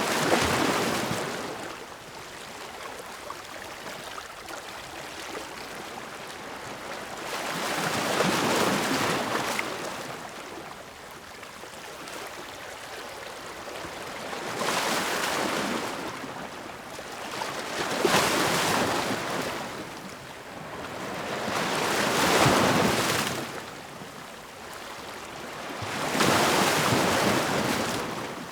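Ocean waves breaking and washing in, surging up in broad rushes every few seconds, about six times, over a steady background wash of surf.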